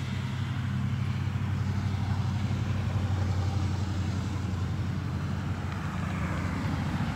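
Steady low rumble of road traffic passing, with no single vehicle standing out.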